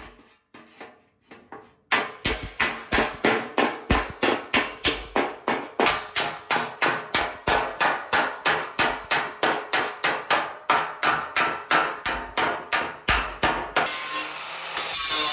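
Hammer blows on sheet metal, struck in a steady rhythm of about three a second, typical of panel beating. Near the end the hammering stops and a steady rasping noise takes over.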